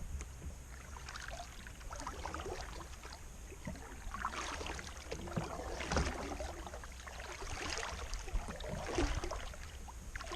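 Kayak being paddled across the water: irregular splashes and light knocks of the paddle and water against the hull, over a steady low hum.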